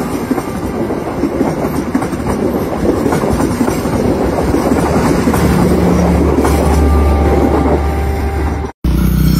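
Train running on the rails: a loud, steady rumble with wheels clattering over the track, which grows heavier in the low end about halfway through. It cuts out abruptly for a moment near the end.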